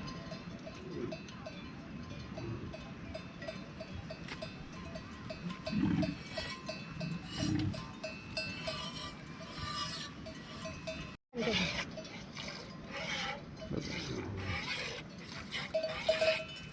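Bells on a herd of sheep or goats clinking in a quick, even run, with a brief break about eleven seconds in and busier clattering after it.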